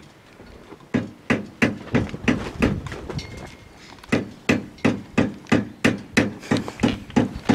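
Hammer beating a piece of lead into shape for a balance weight, in quick sharp blows about three a second. A short run of blows starts about a second in, there is a pause around three seconds, then steady blows resume.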